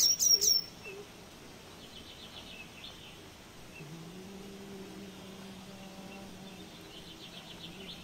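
Wild birds calling: three quick, sharp chirps right at the start, then two fainter trills later on. About halfway through, a steady low hum sets in underneath.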